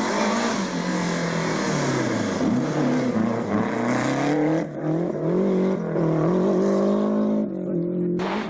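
Rally car engine driven hard, its note rising and falling repeatedly with throttle and gear changes, with a short lift about halfway through. The sound drops away abruptly near the end.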